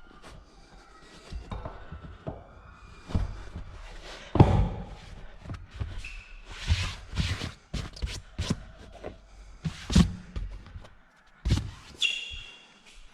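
Irregular knocks, thunks and clatter of car parts and tools being handled during interior reassembly, with a couple of brief squeaks.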